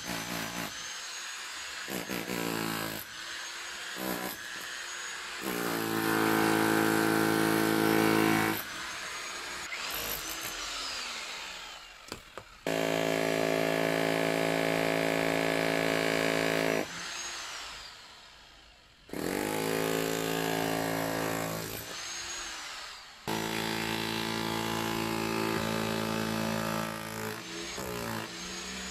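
Handheld electric power tool run in about six bursts of a few seconds each, its motor giving a high whine that winds down after each stop.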